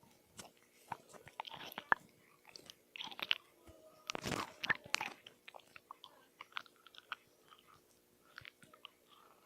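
A person biting and chewing crunchy food close to the microphone: sharp, crackling crunches, densest and loudest around the middle, thinning to occasional small crunches in the last few seconds.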